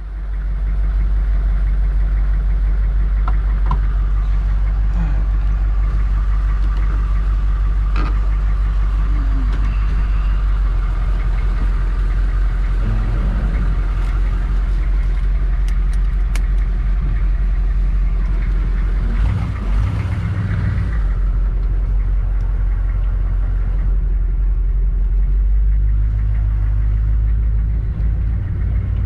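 Squarebody Chevrolet Suburban on the road: a steady, loud low rumble of engine and road noise.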